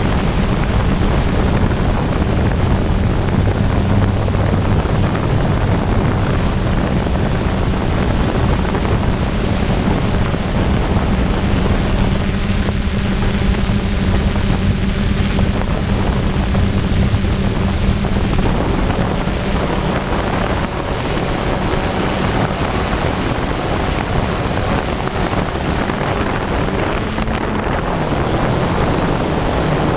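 DJI F550 hexacopter's brushless motors and propellers droning steadily in flight, mixed with wind noise; the motor tone drops slightly in pitch near the end.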